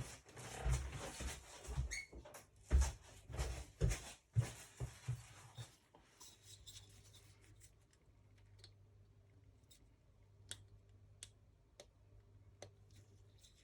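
Hands handling small engine parts and tools at a workbench: rustling and scraping with a few knocks for about six seconds, then a faint low hum with scattered light clicks.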